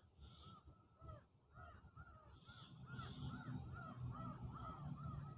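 Faint, rapid chirping calls of birds, about three or four short rising-and-falling calls a second, with a few higher chirps among them.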